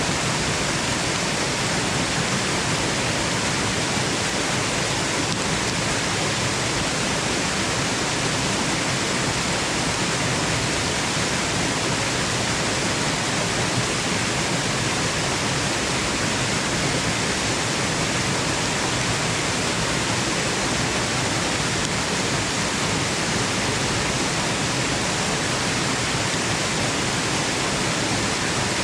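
Steady, unbroken rushing of a waterfall, an even hiss with no changes, used as white noise for sleep.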